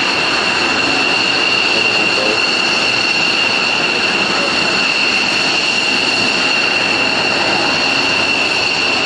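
Jet engines running steadily: a constant high-pitched whine over a broad, even rush of noise that does not change.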